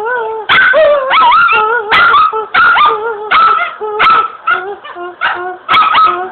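A dog crying: a rapid run of short, loud whining yelps and barks that slide up and down in pitch, about two a second.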